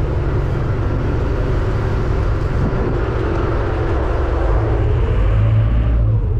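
Steady low engine rumble with a constant rushing noise, as heard aboard a moving vehicle; the higher part of the rushing falls away about six seconds in.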